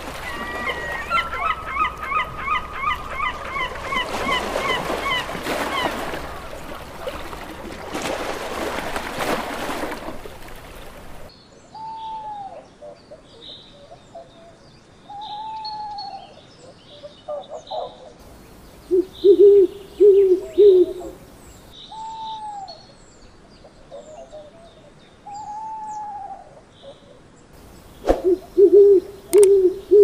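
Birdsong compilation audio. For the first ten seconds or so a bird calls quickly, note after note in a dense run. After a sudden change, an owl hoots in short groups of three or four, twice, loudest about two-thirds of the way in and again near the end, between curved call notes and small-bird chirps.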